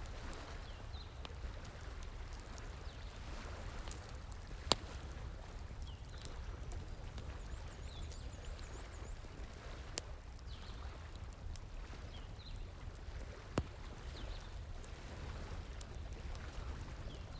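Bonfire crackling with occasional sharp pops, three standing out about five, ten and fourteen seconds in, over the steady rush of a flowing stream.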